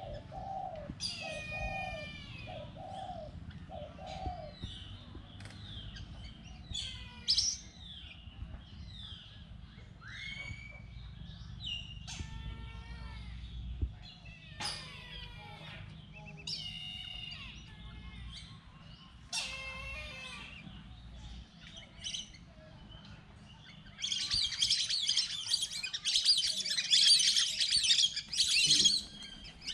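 Birds calling: a scatter of short chirps and whistles, many falling in pitch, with a lower five-note call repeated about a second in. Near the end a loud, dense stretch of high chattering runs for about five seconds.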